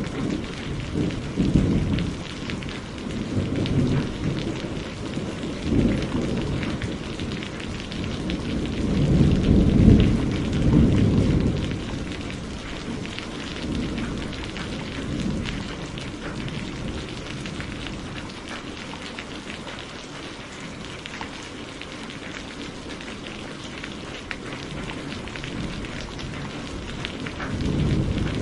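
Steady rain pattering down during a thunderstorm, with rolling low thunder that swells to its loudest about ten seconds in, then fades, leaving mostly steady rain through the second half.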